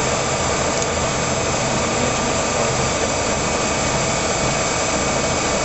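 Monarch 20 x 54 engine lathe running steadily, with an even mechanical whir and a few faint steady whining tones from its drive and gearing.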